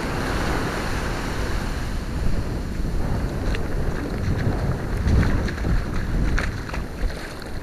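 Wind buffeting the microphone over the steady wash of ocean surf on a beach, with a deep rumble and a few faint ticks.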